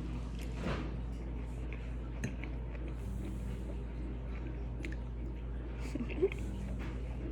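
Quiet chewing and small mouth and eating clicks over a steady low hum, with one sharper click about six seconds in.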